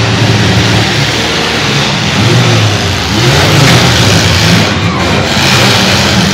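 Several demolition-derby compact cars' engines revving hard and unevenly, their pitch rising and falling again and again as the cars accelerate.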